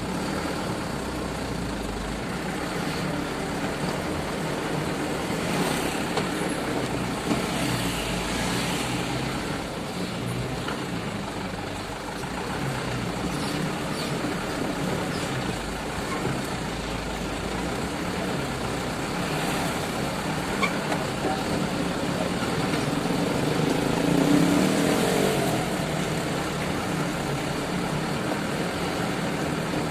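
Sugarcane truck's engine running under load on a rough road, steady with a swell of revving about three-quarters of the way through.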